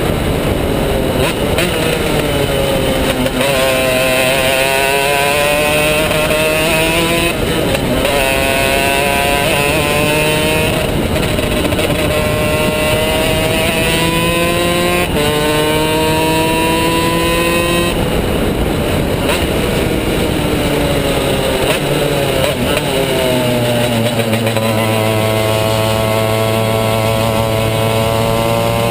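Two-stroke superkart engine at racing speed. Its pitch repeatedly climbs as it accelerates and drops sharply as it shifts gear or lifts for corners, with a long climb near the end.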